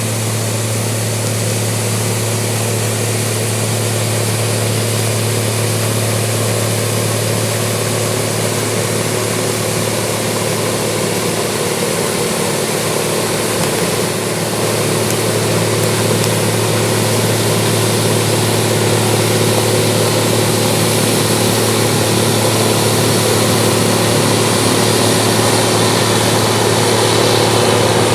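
Case IH 1660 Axial-Flow combine running steadily while harvesting soybeans: a constant deep engine drone with a few steady tones above it under a broad rushing noise, growing a little louder after about halfway.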